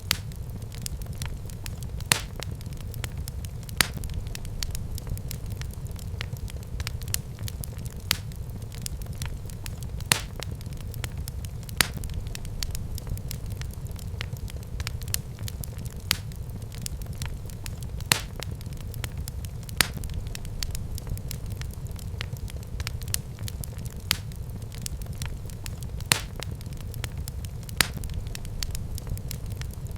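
Wood fire burning in a fireplace: a steady low rumble of flames with constant crackling and sharp pops every second or two.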